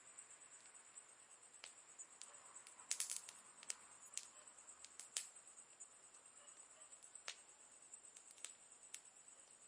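Campfire of burning wood crackling faintly: scattered sharp pops and snaps, with a quick cluster of crackles about three seconds in, over a thin steady high-pitched hiss.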